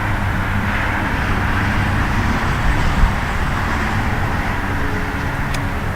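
Road traffic: a vehicle passing on the road, its tyre and engine noise swelling to a steady rush in the middle and easing off toward the end, over a low engine hum.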